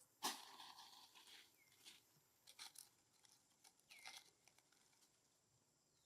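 Faint crackling and crunching noises, a sharp burst about a quarter second in followed by smaller ones, as of long-tailed macaques handling food or rustling material. Two short chirps that fall in pitch come in between.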